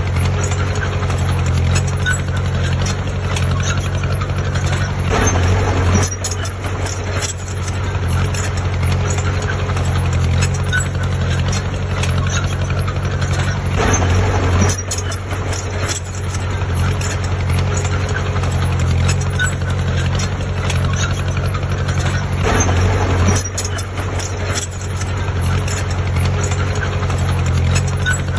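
Heavy diesel engine of earthmoving machinery running steadily, swelling louder briefly about every nine seconds.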